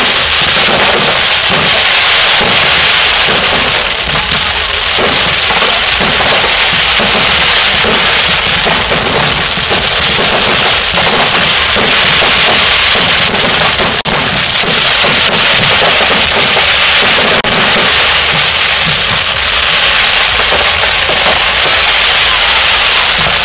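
Fireworks display in a dense, continuous barrage of bangs and crackles, with no break in the noise.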